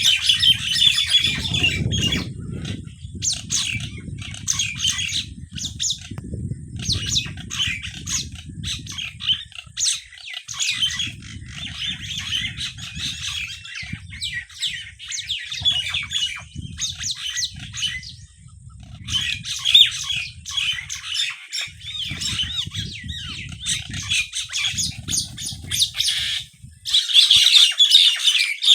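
Many small birds chirping and squawking continuously in quick, overlapping calls. A low rumbling noise comes and goes underneath.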